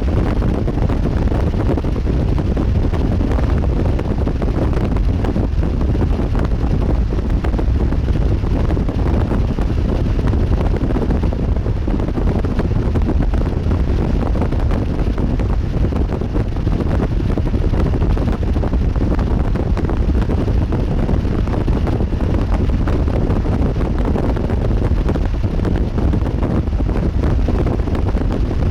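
Strong wind blowing across the microphone: a steady low rumble of wind noise that stays about level throughout, with no gaps.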